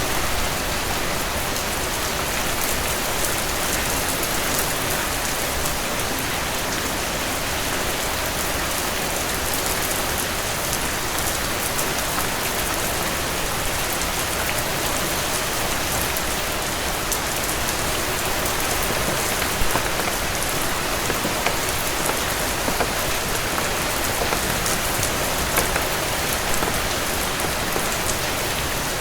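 Heavy rain falling steadily, a dense, even patter, with a few sharp clicks now and then.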